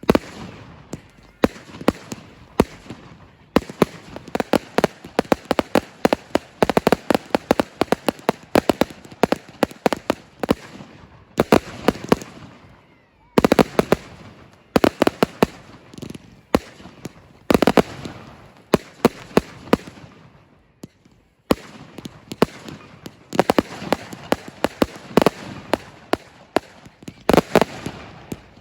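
Fireworks display going off in rapid strings of sharp bangs and crackles, with short lulls near the middle and again about three-quarters through.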